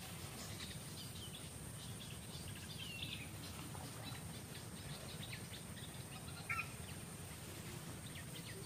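Forest ambience: birds chirping in short, high calls, one louder call about two-thirds of the way through, over a steady high-pitched whine.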